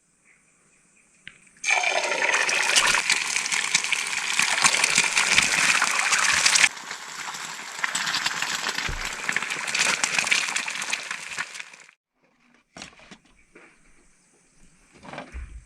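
Water running or pouring in a steady rush for about ten seconds, quieter for its second half, then a few light clicks.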